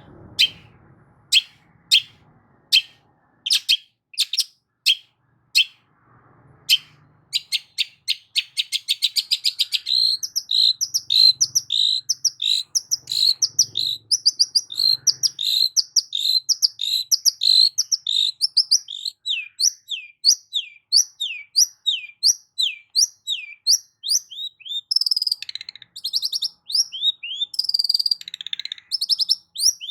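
Long-tailed shrike (cendet) singing: for several seconds a series of sharp single chips, then a fast trill, then long rapid runs of short falling notes, several a second, with busier scratchy phrases near the end.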